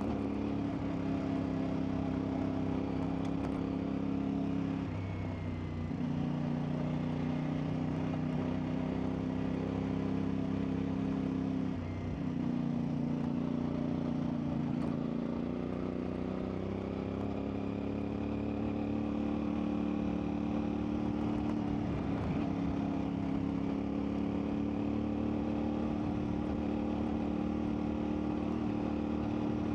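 CFMoto 450MT's parallel-twin engine running steadily while the bike is ridden off-road. Its pitch dips and settles at a new note several times, about 5, 12, 16 and 22 seconds in, as the throttle or gear changes.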